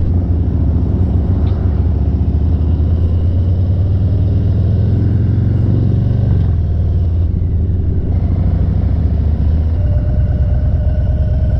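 Harley-Davidson V-twin motorcycle engine running steadily under way, a loud low rumble heard while riding.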